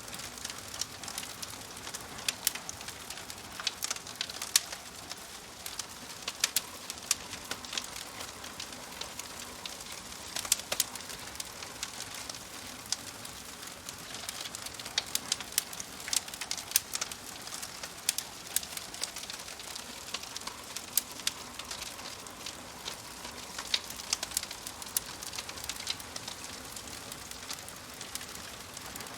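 Wood fire crackling in a fireplace: a steady hiss dotted with many sharp, irregular pops and snaps.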